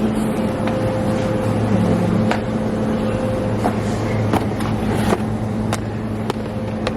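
Steady low engine drone and road noise inside a moving car, with scattered light clicks.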